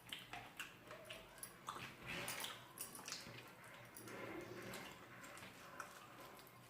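Close-up eating sounds: chewing with wet mouth smacks and small clicks, coming irregularly several times a second.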